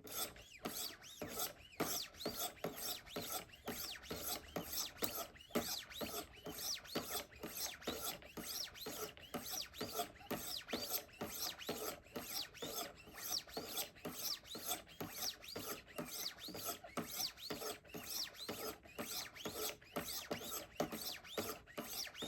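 Knife blade being honed on a Wicked Edge Go guided sharpener's 600-grit stones: quick, regular scraping strokes, about three a second, alternating along the edge. This stage takes out the scratches left by the coarser grits, refining the edge toward a mirror finish.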